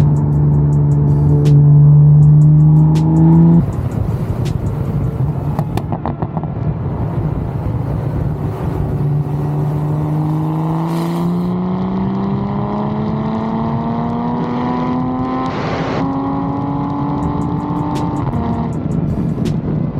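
Car engine and exhaust from inside the drive. The note is held loud and steady, then drops off suddenly about three and a half seconds in. From about the middle it climbs slowly and evenly in pitch through one long pull in a gear, and falls away shortly before the end.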